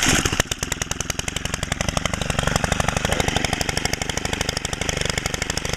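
Stihl FS90R trimmer's small four-stroke (4-MIX) engine idling just after a cold start, off choke and on run, with fast, even firing pulses. It runs a little louder than stock because its muffler spark-arrester screen has been removed.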